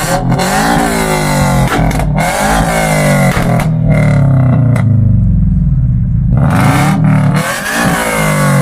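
A car engine revved hard again and again, its pitch climbing and falling back about once a second, with sharp cracks between the revs.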